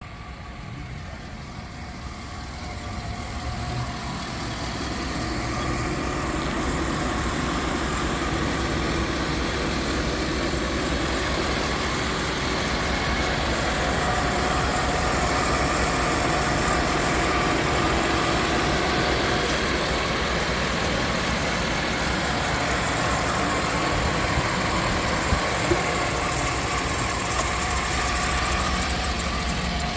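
Chevrolet Tahoe's 5.3-litre V8 engine idling steadily, growing louder over the first few seconds and then holding even.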